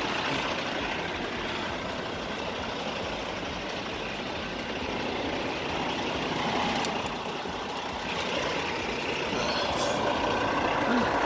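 Steady noise of trucks running, an even rumble and hiss with no clear engine note.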